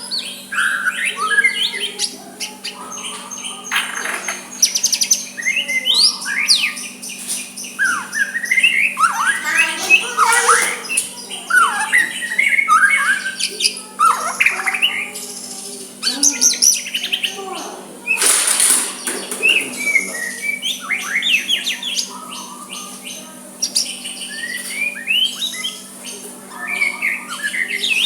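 White-rumped shama singing: a string of varied whistled phrases with quick rising and falling notes and sharp clicks. A brief rushing noise breaks in about two-thirds of the way through, over a faint steady hum.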